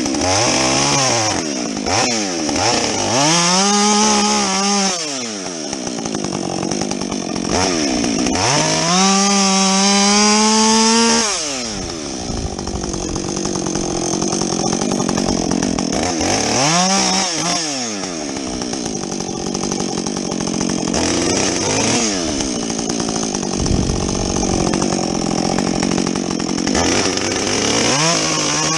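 Husqvarna 562XP two-stroke chainsaw with a modified muffler, bucking a felled tree: it revs up to a high, steady full-throttle scream four times, with rougher, lower stretches in between.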